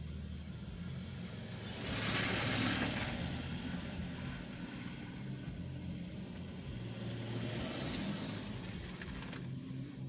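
A car driving on a road: a steady low engine hum with tyre and road noise. About two seconds in, a louder rushing swell lasts for about a second.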